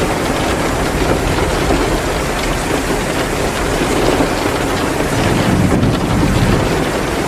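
Steady heavy rain pouring down, with faint crackles of a wood fire in a fireplace now and then.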